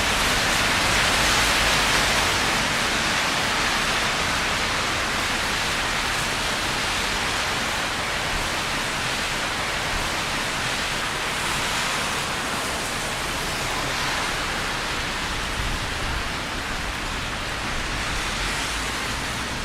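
Rain falling: a steady, even hiss.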